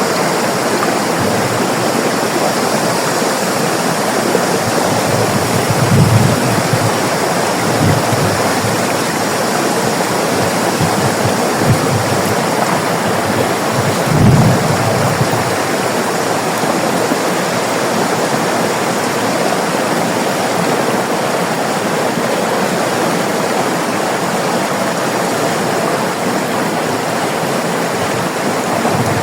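River water rushing and splashing in a steady flow, with a few brief deeper surges of water.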